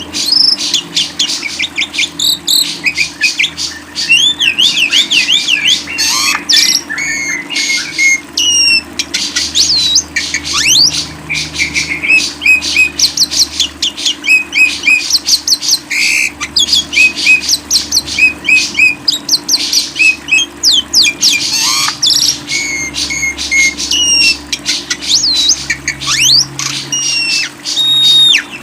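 A songbird singing without pause in a fast, high string of sharp chirps, squeaky notes and sweeping whistled trills. A faint steady hum runs beneath.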